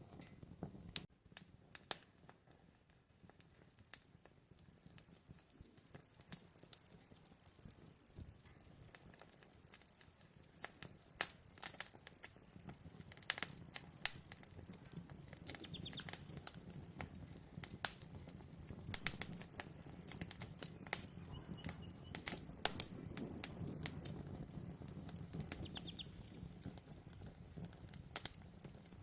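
Cricket chirping in a steady, fast-pulsed high trill that starts about four seconds in and breaks off briefly near the end, over the scattered pops and crackles of a campfire.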